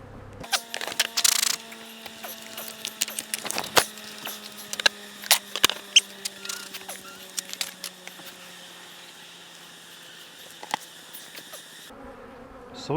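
Honey bees buzzing around an opened hive, a steady hum that sinks slowly in pitch, under scattered clicks, taps and knocks from hive boxes and equipment being handled. There is a short scraping rasp about a second in.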